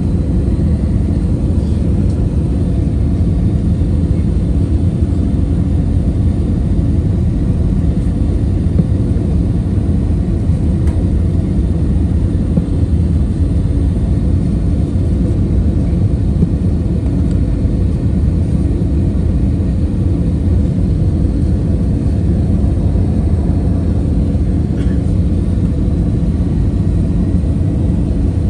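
Airliner cabin noise in flight: the steady low drone of the engines and airflow, heard from inside the passenger cabin, with no change in pitch or level.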